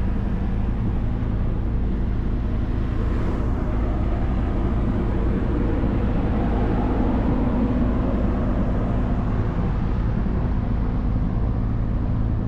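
Car ferry's engine running steadily, really loud, a constant low drone with a hum.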